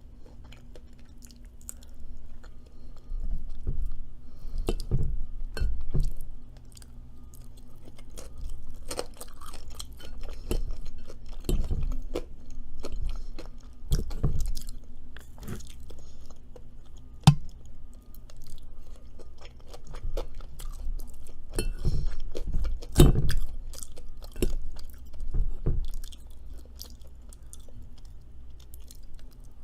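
A person chewing and crunching food close to the microphone, in irregular mouthfuls.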